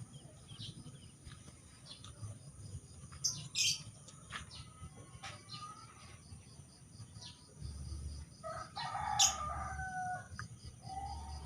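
Small birds chirping in short high notes again and again, with a rooster crowing once about eight and a half seconds in and a shorter call near the end.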